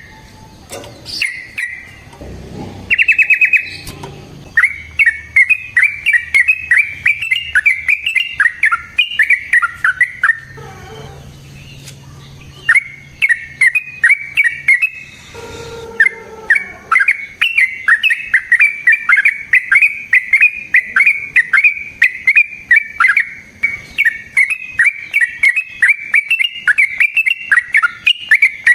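Yellow-vented bulbul singing long runs of rapid, chattering notes, broken by a few short pauses.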